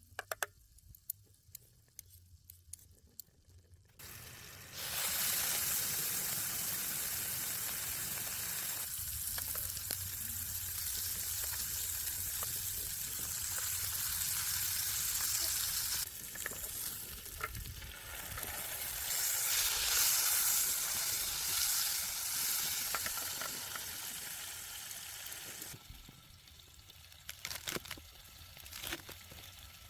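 Food frying in a hot pan, sizzling steadily. The sizzle starts suddenly about four seconds in after a few light clicks and drops away near the end, where a few clicks are heard again.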